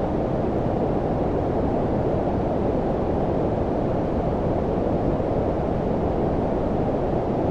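Steady low-pitched noise, a deep, even rumbling hiss with most of its weight below about 1 kHz and little treble, like brown noise. It is constant throughout, with no changes or events.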